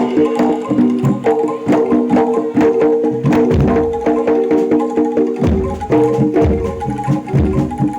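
Javanese jaranan dor ensemble playing: quick, dense drum strokes over a held melodic line, with heavy bass drum beats coming in about three and a half seconds in.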